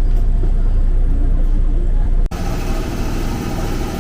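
Steady low rumble of a vehicle engine, which cuts off abruptly a little over two seconds in and gives way to a different, hissier background of engine noise.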